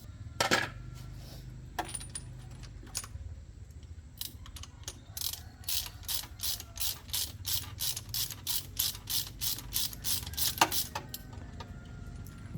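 A ratchet wrench clicking in a quick, even run of about three to four clicks a second, after a few scattered metal clinks. A sharp knock near the end is the loudest sound.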